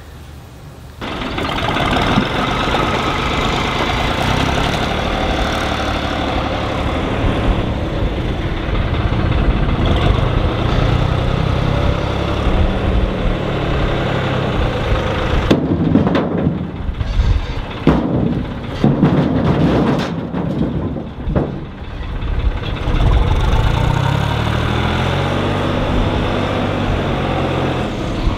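Tractor engine starting about a second in, then running, with its pitch rising and falling as it is revved a couple of times. In the middle there is a stretch of knocks and clatter.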